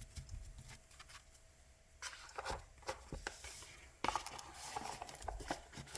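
Tarot and oracle cards being handled: light rubbing, sliding and tapping of card stock, starting about two seconds in and getting busier and louder from about four seconds in.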